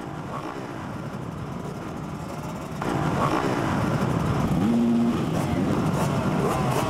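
Several motocross bikes revving on track, their pitch rising and falling as the throttles open and close; it gets louder about three seconds in.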